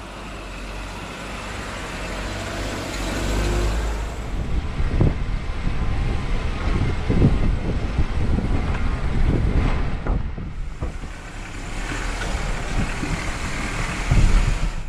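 Jeep being driven, heard from inside the cabin: a steady rumble of engine and road noise, with a few knocks and bumps in the middle.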